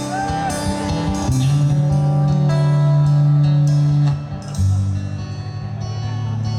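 Live band playing the instrumental introduction of a song, with sustained melody notes over a bass line and drums.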